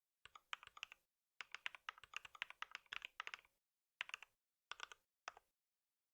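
Typing on a computer keyboard: rapid key clicks in five bursts with short pauses between, the longest lasting about two seconds.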